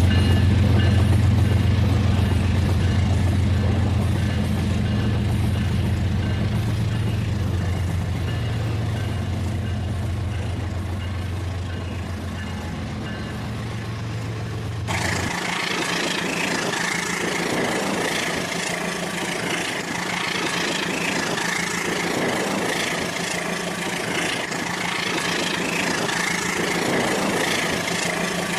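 Battery-powered toy train running, with a steady low engine-like hum that switches abruptly about halfway through to a noisier, higher whirring rattle.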